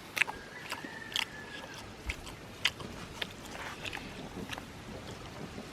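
A person eating close to the microphone, chewing with irregular wet clicks and crunches about every half second. A faint, thin whistle-like tone runs briefly in the first second and a half.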